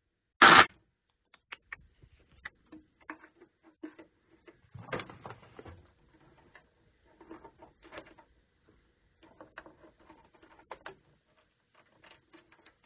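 Sansui AU-9900 stereo amplifier producing irregular crackling and popping noise through its speaker on the phono input, with one loud pop about half a second in; the crackle is the fault being traced in the amplifier.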